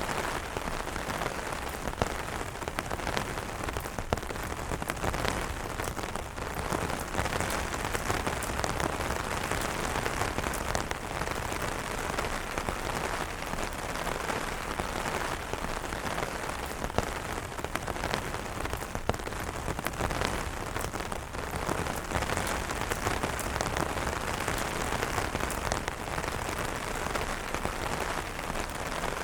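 Steady rain falling on an umbrella: a dense, even hiss of rain with many individual drop ticks, and a few sharper single hits.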